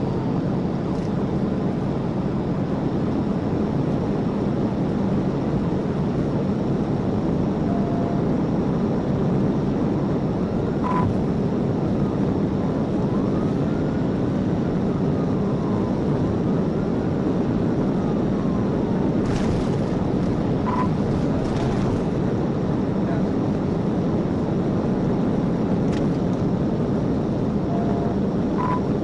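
Police patrol car in a high-speed pursuit: a loud, steady roar of engine, tyres and wind inside the cruiser, with a siren faintly wailing up and down in slow sweeps and a few short beeps.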